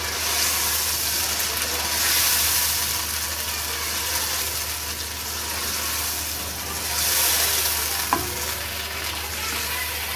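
Chicken pieces and yogurt sizzling in hot oil in a kadhai while a spoon stirs them. The sizzle swells twice, and there is a single sharp click about eight seconds in.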